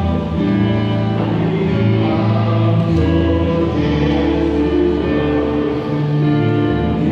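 Church choir singing a slow hymn, with long held notes that change every second or two.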